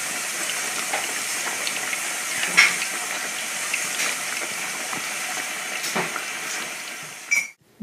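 Potatoes frying in hot oil: a steady sizzling hiss with a few scattered crackles, cutting off abruptly near the end.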